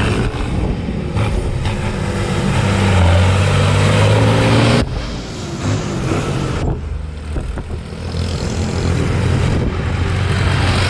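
Tractor engines running as they drive past, in a few short clips cut together. The engine tone grows louder about three seconds in, then changes abruptly just under five seconds in and again at nearly seven seconds.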